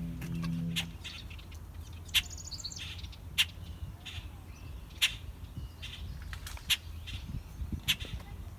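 Wild birds calling: short sharp chirps about every second or so, with a quick falling trill of high notes about two seconds in. A low hum runs for the first second, and a low rumble sits underneath throughout.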